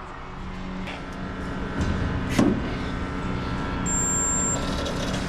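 Steady electrical hum of a noisy body-shop spot welder between welds, with one sharp snap about two and a half seconds in.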